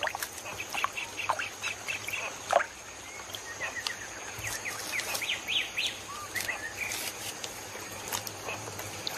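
Birds chirping in many short repeated calls, busiest in the middle, over a steady thin high drone, with scattered sharp clicks, the loudest about two and a half seconds in.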